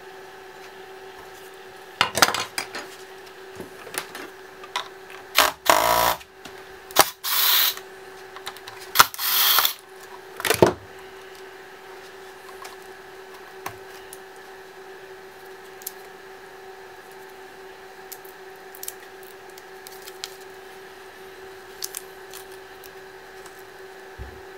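Laptop parts and hand tools being handled during disassembly: a cluster of clicks, taps and short scraping noises of plastic and metal, which fades a little before halfway to the odd faint tick over a steady low hum.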